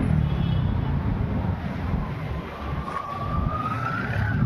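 Low, steady rumble of vehicle engines in stalled traffic. About halfway through, a single siren-like tone rises slowly in pitch for about two seconds.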